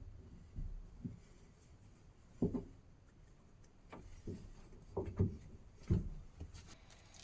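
Irregular soft knocks and thumps of objects being handled, about eight in all, with a few light clicks near the end.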